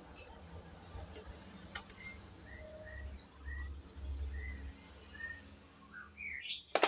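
A small bird chirping in short, evenly spaced notes, about two a second, over a low steady hum, with a few light clicks and a sharp knock near the end.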